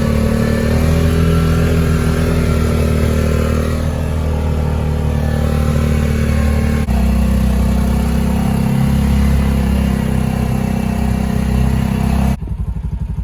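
A snowblower's engine running steadily at a constant pitch. Near the end it cuts abruptly to a quieter, pulsing engine sound.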